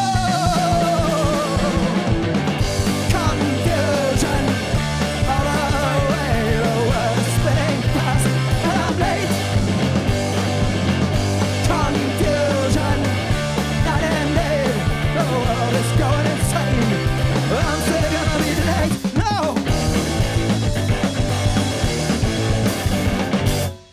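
Live rock band playing a loud song, a guitar bending notes over steadily changing bass notes, stopping abruptly just before the end.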